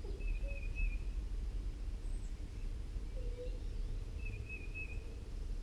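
Two short, high, wavering bird calls, one near the start and one about four seconds in, over a steady low outdoor rumble.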